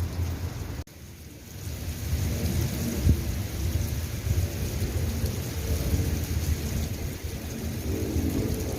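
Steady rain with low rolling thunder rumbling under it. The sound drops out suddenly about a second in, then builds back up within a second.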